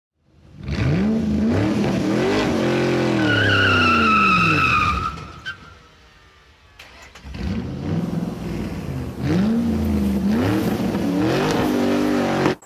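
Car V8 engine revving and accelerating hard, its pitch climbing and falling, with a tire squeal about three to five seconds in. It dies away, then a second hard acceleration runs until it cuts off suddenly.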